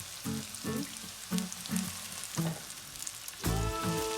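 Chopped onions sizzling as they fry in hot oil in a pan, a steady hiss, with background music under it and a held chord coming in near the end.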